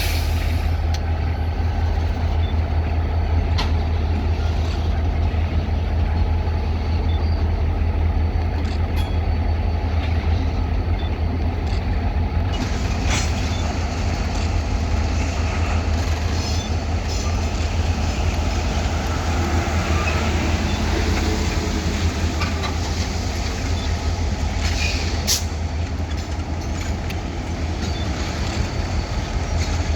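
EMD diesel locomotives running with a steady low engine hum. A few brief air hisses and sharp clicks cut through it, and from about halfway a higher hiss joins in.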